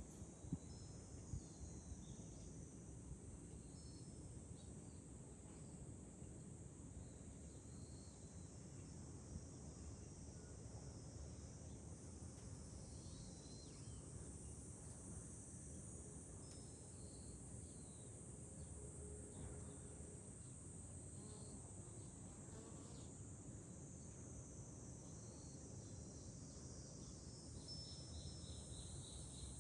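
Faint chorus of cicadas in summer: a steady high-pitched drone over a low rumble of wind, with a few short chirps scattered through it and a quick pulsed trill near the end.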